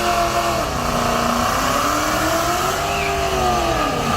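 Car engine running under throttle, its pitch slowly rising and falling as the revs swing up and down.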